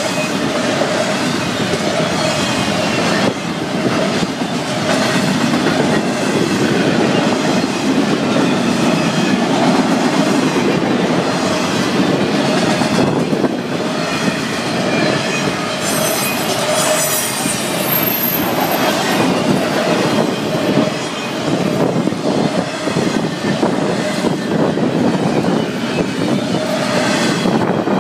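Freight cars of a Florida East Coast Railway train rolling past close by: a steady loud rumble of steel wheels on rail, with the clickety-clack of wheels crossing rail joints and squealing wheels at times.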